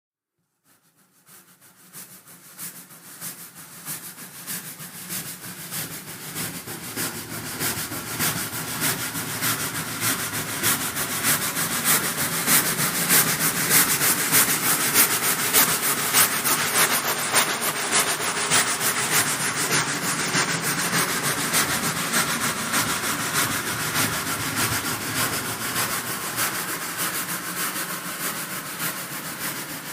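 Steam locomotive chugging with a fast, even rhythm of strokes, fading in from silence over the first several seconds and then running steadily.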